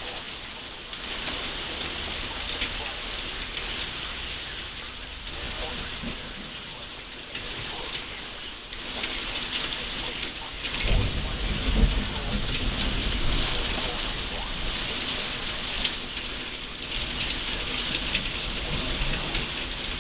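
Heavy rain pouring steadily during a severe thunderstorm, with a low rumble of thunder rising about halfway through and slowly fading.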